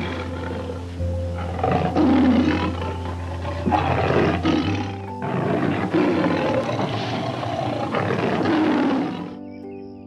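A large animal roaring repeatedly, with several rough calls and short pauses between them, over background music.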